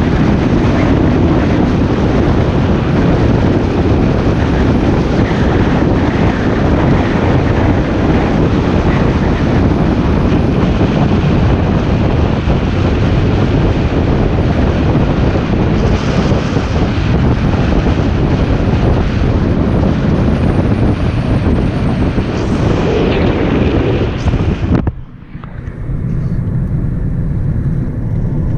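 Car driving, with loud wind and road noise rushing over the microphone. About 25 seconds in the noise drops suddenly to a quieter, low rumble of the car running.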